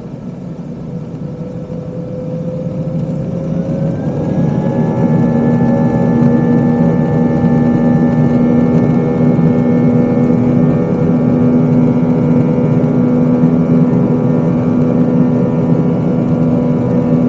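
Airbus A320's jet engines spooling up to takeoff thrust, heard inside the passenger cabin. A rising whine and a swelling roar over the first few seconds settle into a loud, steady roar with steady whining tones.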